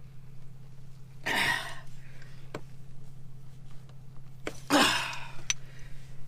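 A man grunting and blowing out hard twice, about a second in and near the end, while he forces a tyre plug needle through a punctured 4WD tyre. A few small clicks come from the tool. A steady low hum runs underneath.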